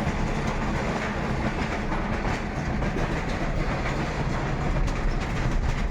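Steady rumble and rattle of a moving vehicle, heard from inside as it travels along.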